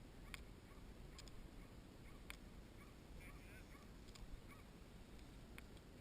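Near silence in an open field: a few faint, short clicks scattered through, and faint high chirping about halfway through.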